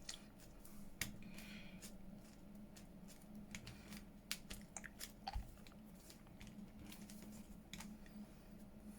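Faint, irregular taps and clicks of a rubber stamp being inked and pressed onto paper, over a steady low hum.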